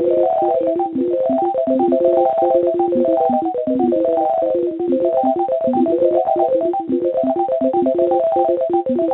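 Quick run of short electronic beep tones at shifting pitches, several a second, like a simple synthesizer tune, heard over a telephone line.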